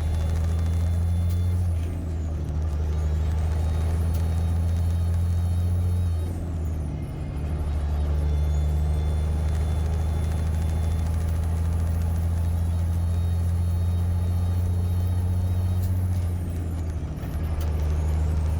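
Car-hauler truck's diesel engine running steadily, with a high whistle that rises and falls away with brief dips in the engine drone about 2, 7 and 17 seconds in.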